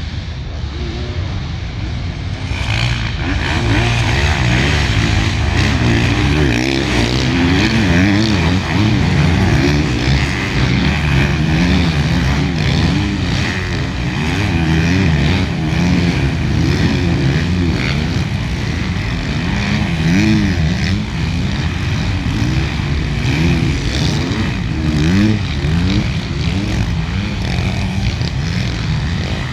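A pack of motocross bikes racing together, many engines revving hard at once. The engines get louder about two and a half seconds in, and their pitches keep rising and falling as riders accelerate and shift.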